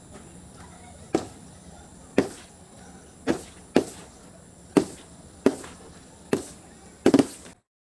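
A series of about eight sharp knocks or cracks at uneven intervals, each dying away quickly, over a faint steady hiss. The last is a quick double strike.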